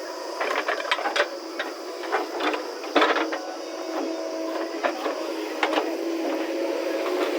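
Backhoe loader engine running with a steady hum, overlaid by irregular metallic clicks and clanks, the loudest about three seconds in.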